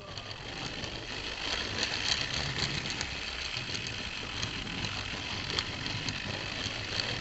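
Tri-ang Hornby 0-4-0 tank engine's small electric motor and gears whirring steadily, with a few faint clicks from the wheels on the track. The engine is struggling to haul the heavy camera-carrying well wagon.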